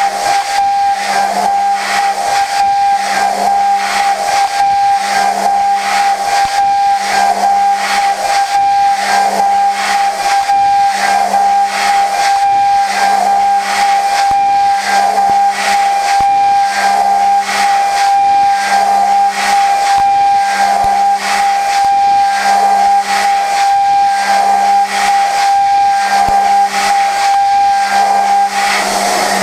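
Okuma GENOS M560V vertical machining centre high-speed milling prehardened 4140 steel with a Sandvik Coromant cutter: a steady high-pitched cutting whine over a hiss, with a lower tone pulsing in an even cycle about once a second.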